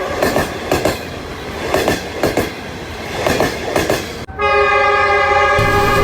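Train wheels clacking over rail joints in irregular pairs of clicks, then an abrupt cut about four seconds in to a loud, steady train horn.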